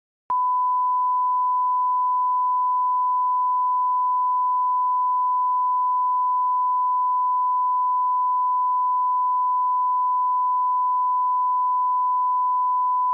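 Steady 1 kHz sine-wave line-up tone at −18 dB reference level, one unbroken pure pitch that begins a moment in after a brief gap.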